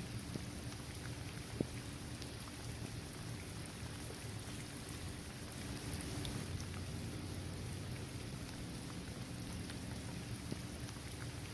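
Steady rain falling on a paved basketball court, trees and grass, with scattered drops ticking sharply and one louder drop about a second and a half in.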